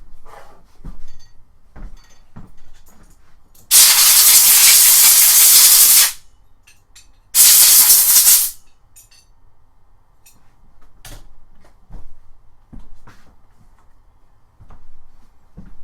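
Two blasts of compressed air, the first about two and a half seconds long and the second about a second, blowing junk off a metal part. Small knocks of handling come between them.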